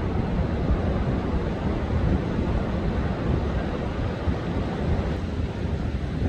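Rough storm surf breaking and washing in under a strong wind, with wind buffeting the microphone: a steady, heavy rumble of noise.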